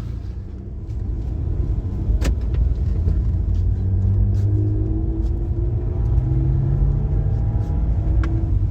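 BMW E46 328i's straight-six engine running under light throttle, its pitch slowly rising in the second half, with a heavy low rumble. A sharp click about two seconds in and another near the end.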